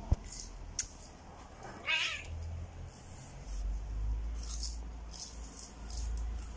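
Domestic cat meowing once, about two seconds in. A sharp knock comes just before, and a low rumble runs through the later part.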